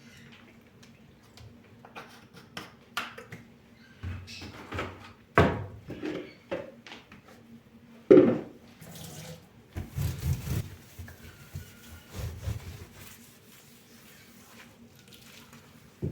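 Water running from a kitchen tap into a sink, with dishes and objects knocking and clattering as they are handled; the sharpest knock comes about eight seconds in.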